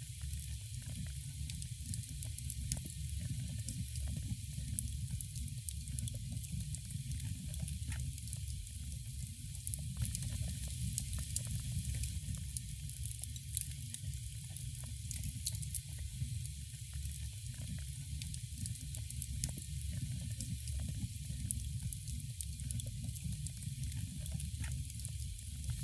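Wood fire crackling steadily in a fireplace, with many small sharp pops over a low, even rumble.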